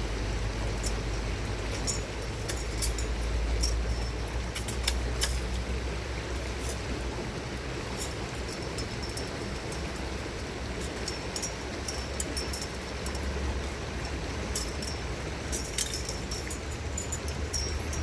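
Scattered light clicks and clinks, more of them near the end, over a steady outdoor background of noise with a low rumble.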